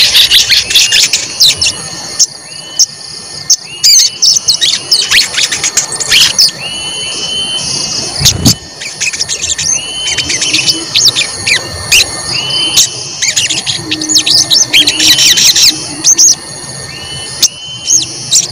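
Sogon (chestnut-backed scimitar babbler) calling energetically with sharp 'cuit cuit' chirps. Dense clusters of quick high chirps alternate with a short, slightly rising whistled note repeated many times.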